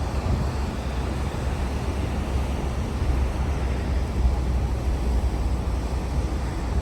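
Car driving along a road, with a steady low rumble of engine and tyre noise and some wind noise.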